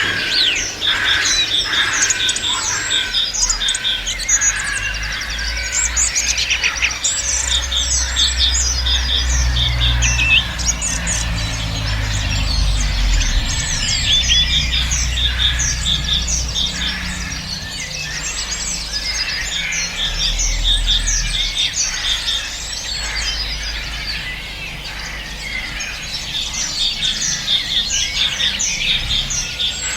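Many songbirds singing at once in a dense chorus of chirps and short quick runs of repeated notes, over a low rumble.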